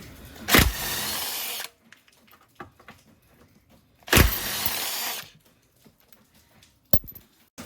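Cordless power tool, such as an electric ratchet or impact driver, run in two bursts of about a second each while removing the car's underbody bolts, with a short sharp click near the end.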